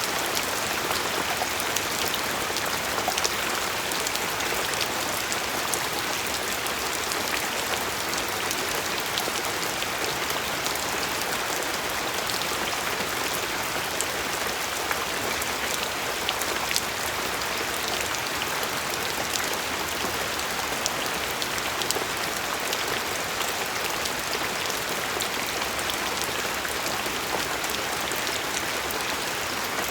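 Steady rain falling, with many small drops pattering individually over an even hiss.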